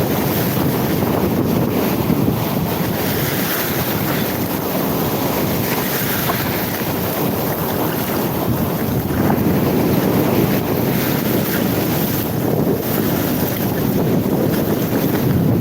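Wind buffeting the microphone, a steady rushing noise strongest in the low end, with sea surf mixed in.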